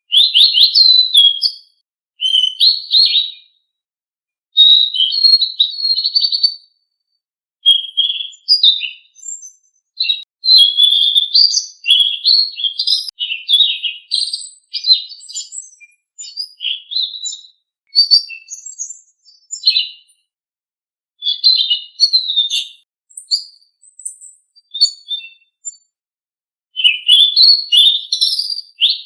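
Recorded song of a selendang biru songbird: bursts of rapid, high chirping and twittering phrases, each a second or two long, with short pauses between them, played as a masteran to prompt captive birds to sing.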